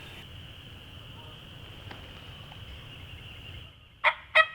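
A wild turkey gobbler starts gobbling near the end, a fast run of loud notes about three a second. Before it, a steady high-pitched drone of insects.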